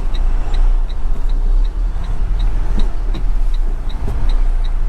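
Semi truck's diesel engine idling with a steady low rumble heard from inside the cab, with the flasher relay ticking evenly about two and a half times a second.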